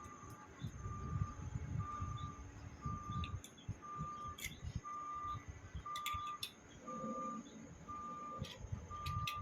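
An electronic beeper sounding one steady, even beep about once a second, like a vehicle's reversing alarm, with a few sharp metallic clinks of pump parts being handled.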